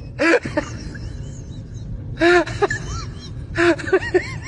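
Short, high-pitched whining cries, several in a row, each rising and then falling in pitch, over a steady low rumble.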